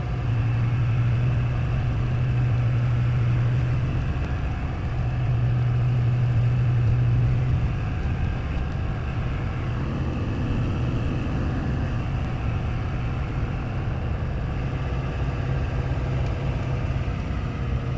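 2002 GMC Duramax 6.6-litre V8 turbodiesel pickup pulling hard up a steep mountain grade while towing a trailer loaded with a tractor: a steady low engine drone over road noise.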